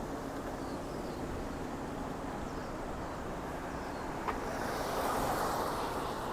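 Street traffic noise with a steady hum, and a vehicle passing close by near the end, preceded by a single sharp click.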